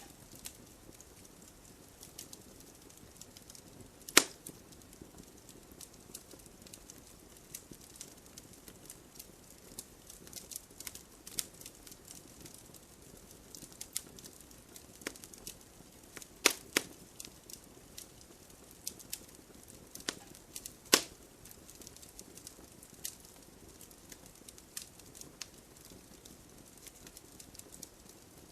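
Log fire burning in a fireplace: a steady crackle of small snaps, with a few louder pops from the logs, one about four seconds in, two in quick succession a little past the middle, and one about three-quarters of the way through.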